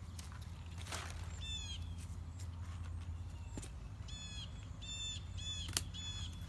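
A bird calling in short repeated calls: a pair about a second and a half in, then a steady series of about two calls a second from around four seconds on. A steady low hum runs underneath, and there is a sharp click near the end.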